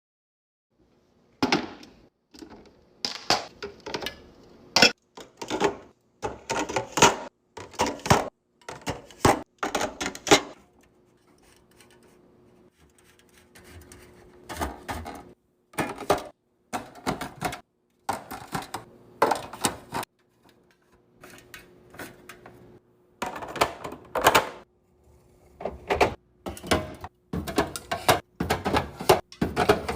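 Food packages and containers being handled and set down while restocking a fridge: irregular clacks, knocks and rustles, with a faint steady hum underneath.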